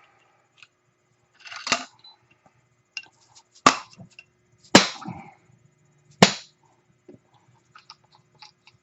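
Four hammer blows on metal, a second or more apart, each with a short ring, the later three the loudest: a pressed-in part of an ATV's front suspension being banged out.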